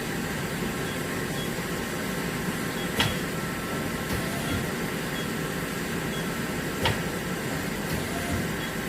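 Steady mechanical hum with two sharp clicks about four seconds apart.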